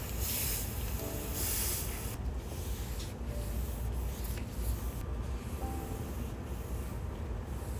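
Something rubbed against a surface in hissing strokes, strongest in the first two seconds, over a steady low rumble.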